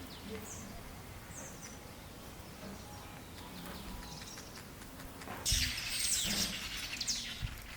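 Weaver birds chirping in short high calls, with a louder rustling burst about five and a half seconds in.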